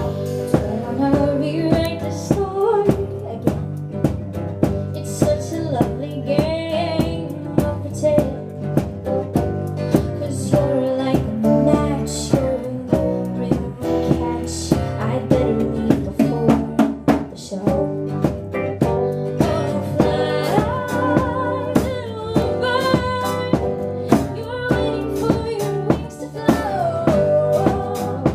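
Live band playing a song, with a drum kit keeping a steady beat under guitar and a singing voice carrying the melody.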